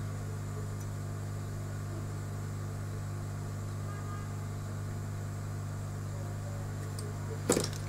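Steady low hum, with one sharp knock near the end.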